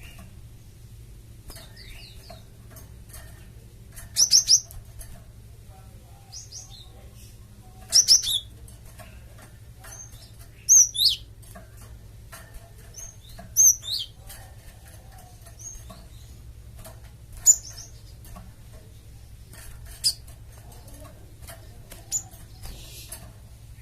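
Cinereous tit (gelatik batu) giving short, high chirping calls in brief bursts every two to four seconds, with faint clicks and a steady low hum underneath.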